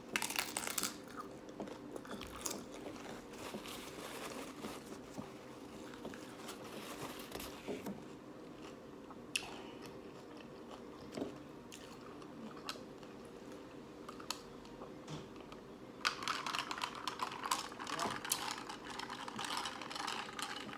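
A crisp hard-shell taco crunching as it is bitten into, then chewed with scattered crunches. A louder, denser run of crunching comes near the end.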